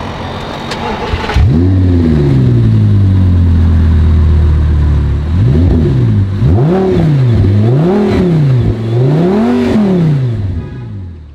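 Lamborghini Gallardo's 5.2-litre V10 starting: it catches about a second and a half in with a flare of revs, settles to idle, then is blipped four times before the revs drop back near the end.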